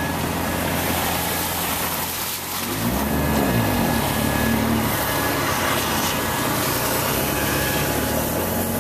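Jeep Wrangler TJ engine running under the driver at crawling speed on a sandy trail. About two and a half seconds in it drops briefly, then revs up with the pitch rising and falling before settling back to a steady run.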